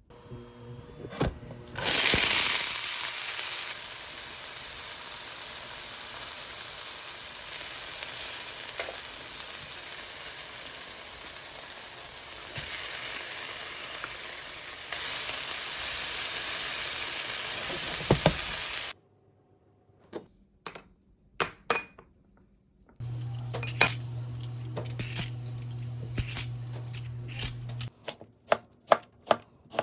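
Food frying in an oiled pan: a loud burst of sizzling about two seconds in as the food goes into the hot pan, settling into steady sizzling that stops abruptly about two-thirds of the way through. After it come scattered clinks and taps of kitchen utensils, with a low steady hum for a few seconds.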